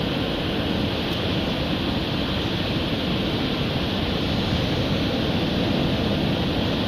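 Ocean surf washing onto a beach: a steady, even rush of wave noise.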